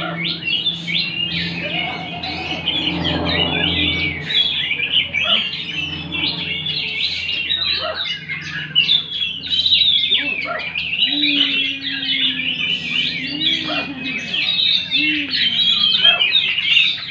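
Several songbirds singing at once in a songbird contest: a dense, unbroken stream of quick, high, overlapping chirps and trills.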